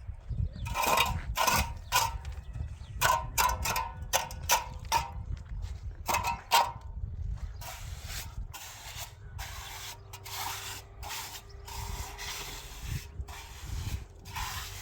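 Rapid repeated scraping strokes, loud through the first half and fainter later, with a faint steady tone under the second half.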